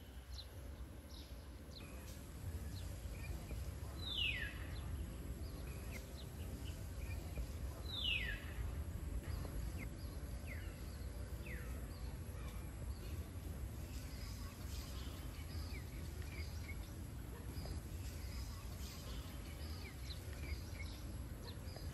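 Birds calling over a steady low outdoor rumble: a clear falling whistle twice, about four seconds apart, then fainter ones, among scattered short high chirps.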